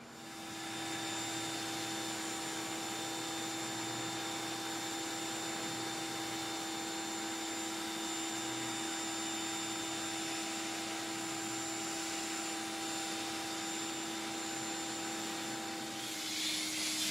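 A cleaning machine's electric motor running with a steady whine. About a second before the end, a loud hissing rush like spray joins in.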